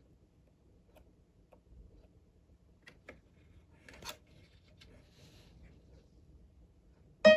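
Faint, scattered clicks and ticks of small tools and wire being handled at a circuit board. Near the end comes a sudden loud pitched note that rings and fades away.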